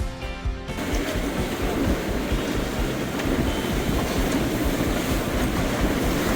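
Background music ending about a second in, then storm wind blowing hard and steadily, rumbling on the microphone.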